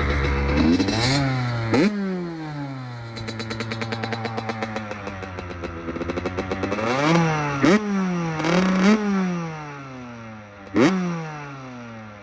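Honda CRF450R dirt bike engine revved in a series of sharp throttle blips, each one climbing quickly and falling back over about a second, with one longer, slower fall back to a steady low note in the first half.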